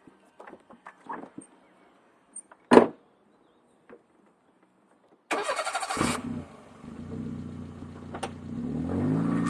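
A few light clicks and one sharp knock, then the starter motor cranks for about a second. The Peugeot 106's 1.1-litre four-cylinder petrol engine catches and settles into an idle through an Imasaf sport exhaust, the idle rising a little near the end.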